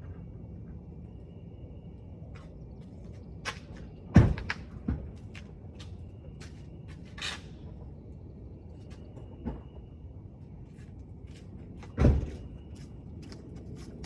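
Knocks and thumps of fishing gear being handled and packed into a kayak: several separate knocks, a heavy thump about four seconds in and another near the end, with a brief scrape in between.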